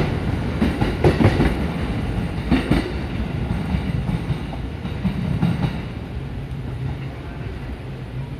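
Electric commuter train pulling out of the station: the last cars roll past with wheels clacking over rail joints a few times, then the rumble fades steadily as the train moves off down the line.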